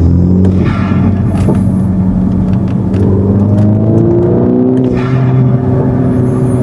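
A MINI F56's turbocharged engine pulling under acceleration, heard from inside the cabin through an aftermarket cold air intake. The engine note holds steady at first, then climbs slowly in the second half. Brief airy whooshes come about a second in and again around five seconds.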